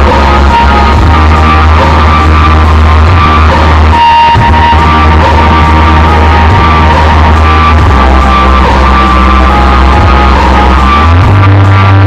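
Very loud music played through a large sound-hire rig stacked with twelve subwoofers. Heavy held bass notes dominate, shifting to a new bass note about eleven seconds in.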